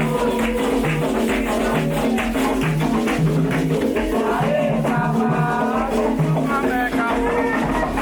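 Candomblé ritual music: singing over steady percussion, with a shaken rattle prominent.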